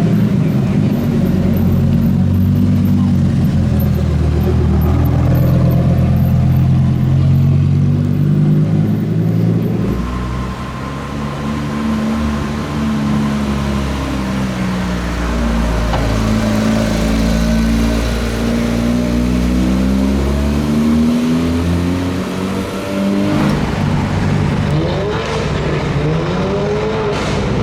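Supercar engines running at low revs, then revving: pitch climbs in the middle, and near the end a couple of quick rising-and-falling throttle blips.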